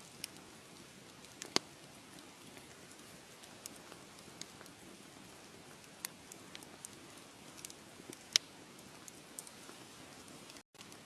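Wood fire crackling: a soft steady hiss with scattered sharp pops and snaps, two of them much louder, about a second and a half in and about eight seconds in. The sound cuts out for an instant near the end.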